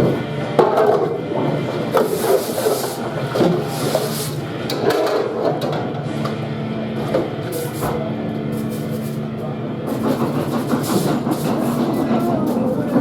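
Commercial kitchen dishwashing: a machine's steady hum under repeated clatter and knocks of metal trays being handled.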